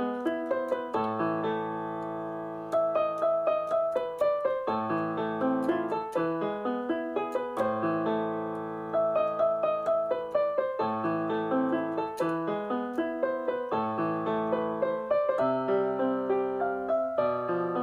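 Background piano music: a melody of quickly struck notes over held chords.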